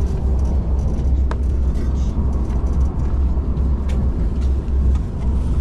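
Steady low rumble heard inside the carriage of a moving KTM ETS electric intercity train, with a couple of light clicks.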